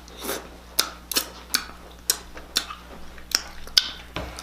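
Crab shell being cracked and picked apart by hand: a run of sharp, irregular cracks and clicks, about two a second.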